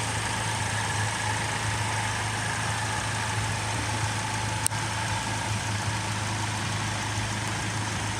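Holden Captiva engine idling steadily, with one sharp click about halfway through.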